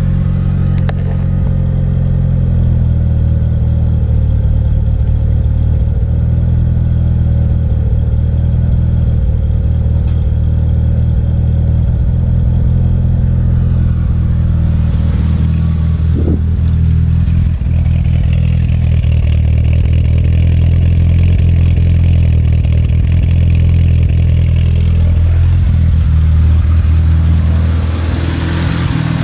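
A DSM's four-cylinder engine running at a steady idle with a misfire that persists after everything but the ECU and coil pack has been replaced.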